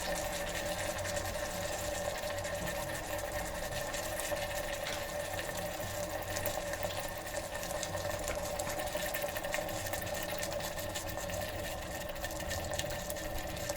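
Onion and capsicum with sauce sizzling and crackling in oil in an electric kettle, over a steady mechanical hum.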